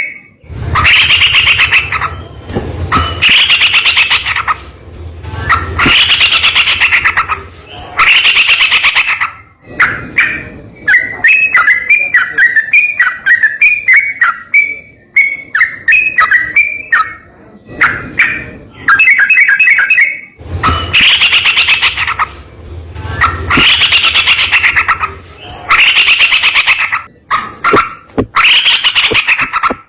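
Yellow-vented bulbul (trucuk) singing loudly, repeating a rich phrase of about a second every couple of seconds, with a stretch of quick, chattering notes in the middle.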